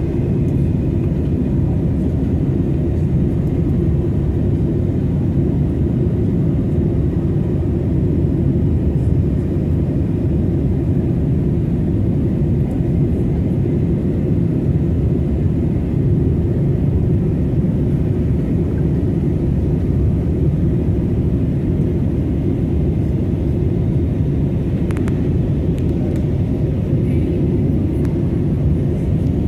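Airbus A320 cabin noise: the steady low rumble of the jet engines and airflow, heard from inside the passenger cabin in flight.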